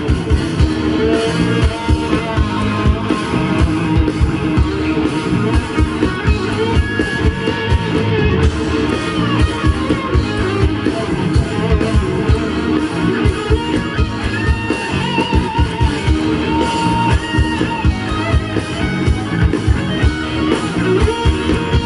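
Rock band playing an instrumental passage: guitars over bass and a steady drum beat, with no vocals.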